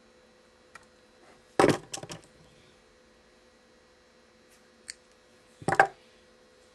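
Clicks and clacks from stringing a badminton racket on a stringing machine: the machine's clamps and parts being set and released while the cross strings are tensioned. There are two short clusters of sharp clacks, one after about a second and a half and one near the end, with a few faint ticks in between.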